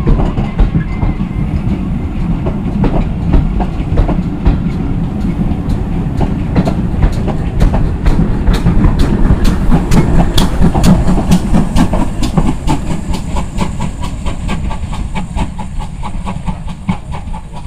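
Heritage train running by, a heavy rumble with its wheels clicking over the rail joints in a rapid, even run; the sound builds through the middle and fades away near the end.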